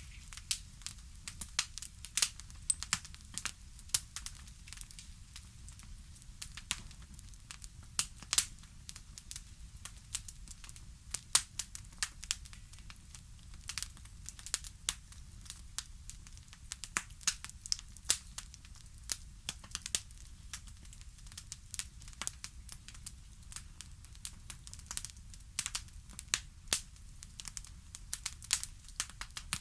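Wood fire crackling in a fireplace: irregular sharp pops and snaps, several a second, over a soft low rumble.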